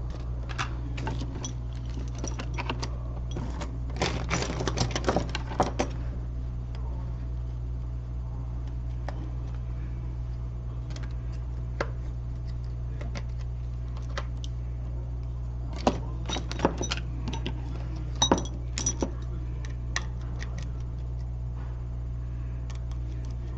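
Small sharp clicks and taps of repair tools on a phone and work surface, in a busy cluster over the first six seconds and again about two-thirds of the way in, over a steady low hum.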